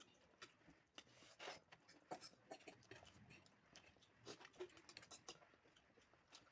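Faint eating sounds: chewing of chow mein, with many scattered small clicks and scrapes of a utensil on a plate.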